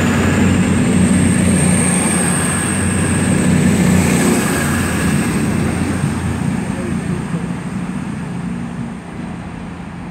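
Class 221 Super Voyager diesel-electric unit pulling out of the station, its underfloor diesel engines running hard under a high thin whine. The sound fades steadily over the second half as the train draws away.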